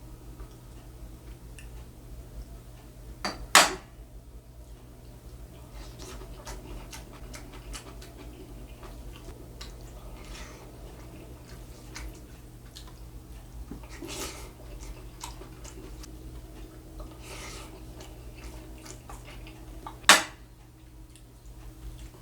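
Cutlery clinking against a bowl during a meal: two sharp, loud clinks, one about three and a half seconds in and one near the end, with faint small taps and scrapes in between.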